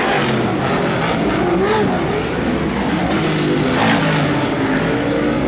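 Several off-road racing vehicles' engines revving hard together, their pitches rising and falling as the pack accelerates and lifts through a turn.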